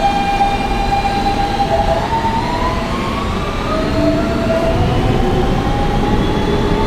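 Siemens AC traction motors of an R160B subway train whining as the train accelerates out of a station, heard inside the car over the rumble of the wheels. A steady whine starts climbing in pitch about two seconds in, several tones rising together.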